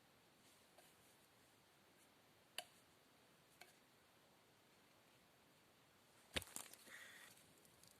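Near silence broken by two faint clicks and then one sharper knock about six seconds in, followed by a brief rustle.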